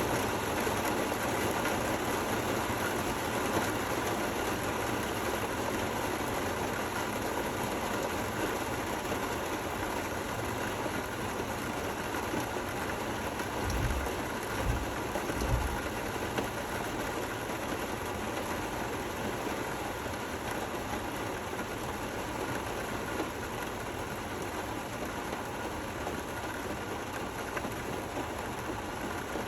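Steady rain falling, an even hiss with no let-up. A few low thumps come about halfway through.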